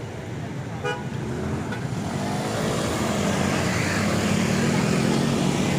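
City street traffic with a motor vehicle's engine growing louder and rising slightly in pitch from about two seconds in as it approaches or pulls away, with a short click about a second in.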